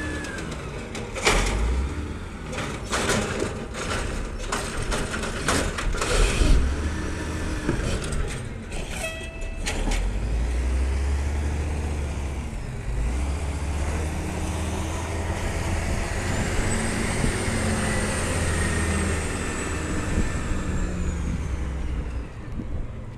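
Garbage truck running, with a series of sharp bangs and clatters in the first ten seconds, then the engine running steadily under a high whine that rises and falls over several seconds.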